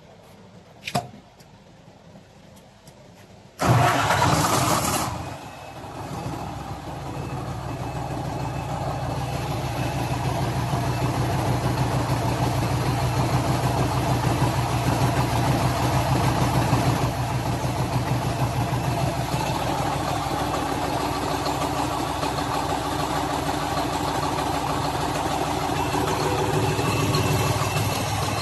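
Cummins 250 kVA open-frame diesel generator set starting: a small click about a second in, then a little before four seconds the engine cranks and fires with a sudden loud burst, dips, and settles into steady running that builds up over the next several seconds and then holds.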